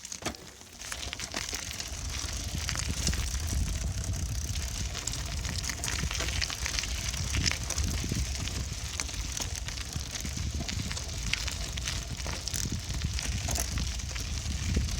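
Riding noise from a bicycle in motion: a steady crackling rumble of tyres rolling over the path, with wind rumbling on the microphone. It builds up about a second in.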